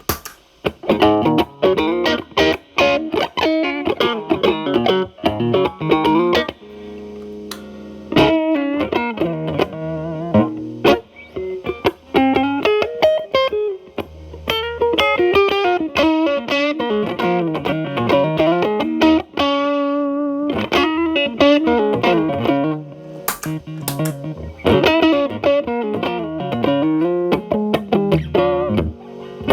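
Electric guitar, a Telecaster with single-coil pickups, played through an early MI Audio Crunch Box distortion pedal, gain around 8 to 9 and tone at maximum, into a Marshall Valvestate amp's clean channel. Improvised single-note lead lines with a few held, bent notes, one with vibrato about two-thirds of the way through.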